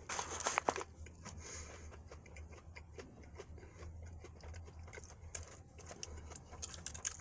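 Faint mouth sounds of someone chewing a bite of fried chicken sandwich: irregular small clicks and smacks, over a low steady hum.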